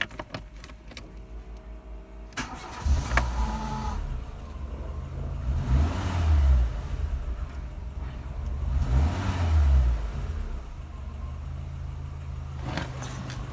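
Renault Megane's 1.6-litre K4M708 four-cylinder petrol engine being cranked by the starter motor, catching after about two seconds and starting. It is revved twice, then settles to a steady idle.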